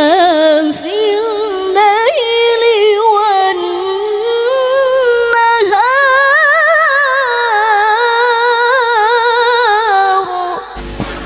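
A woman's voice in qiroah, melodic Quran recitation, holding long ornamented notes with a quick waver. About six seconds in it climbs to a higher held note, then stops sharply near the end. A steady hiss remains after the voice stops.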